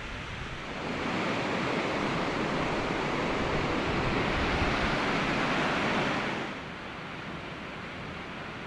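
Purling Brook Falls waterfall rushing, a steady noise of falling water. About six and a half seconds in it drops away to a quieter steady hiss.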